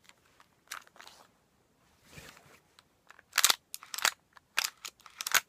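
Tokyo Marui Colt Government Series '70 gas blowback airsoft pistol being field-stripped: a series of sharp clicks and short scrapes of its parts, with a softer sliding sound about two seconds in and the loudest clicks about three and a half seconds in.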